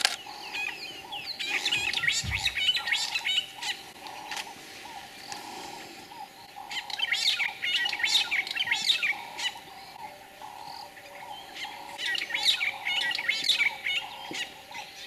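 Wild birds chirping in quick chattering bursts, about a second and a half in, around seven seconds and again from about twelve seconds, over a lower note that repeats steadily throughout.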